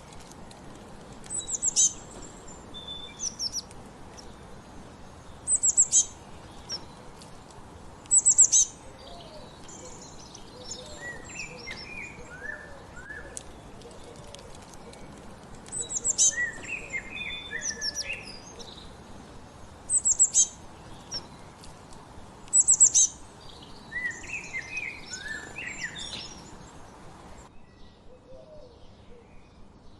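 Wild songbirds singing outdoors: one bird gives loud short bursts of very high, sharp notes every few seconds, while another answers with softer runs of lower, falling notes, over a steady background hiss.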